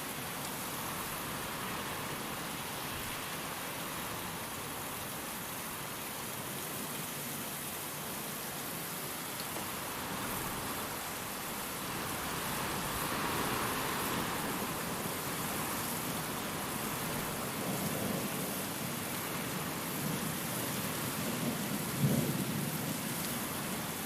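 Steady rain with wind, swelling louder around the middle. Low thunder rumbles in the last part, with one sharper clap near the end.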